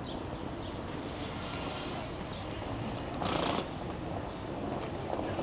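City street ambience: a steady low rumble of traffic. About three seconds in there is a brief louder burst of noise, about half a second long.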